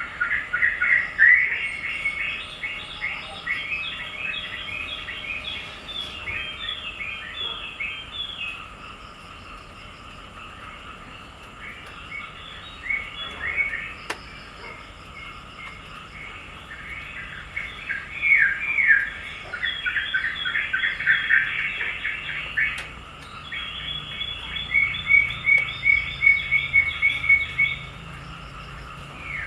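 Small birds chirping in quick runs of short, falling chirps, coming in several bursts with brief lulls between them, over a faint steady outdoor background.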